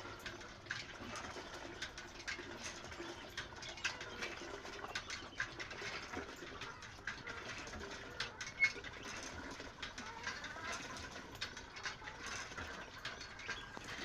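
Chickens making low, soft murmuring clucks, with many small clicks and taps scattered throughout.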